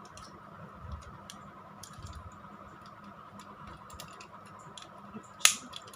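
Scattered light clicks and taps of a battery-powered plastic toy train engine being handled and fiddled with, with one sharper, louder click a little before the end.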